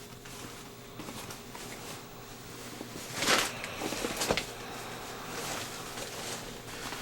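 Fabric rustling as cargo pants are handled, with a louder brief scuffing burst about three seconds in and a few sharper rustles a second later.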